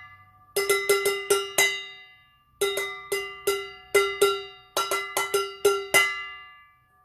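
A spoon beating on a basin in three quick runs of about five or six ringing strikes each. Each stroke rings on at the same steady pitch.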